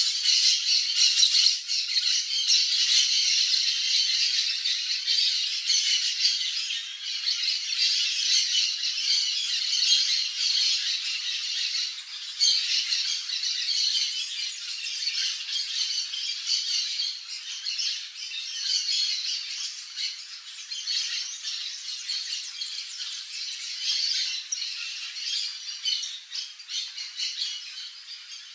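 A dense chorus of harsh bird calls and chirps, high-pitched and continuous, easing off slowly toward the end.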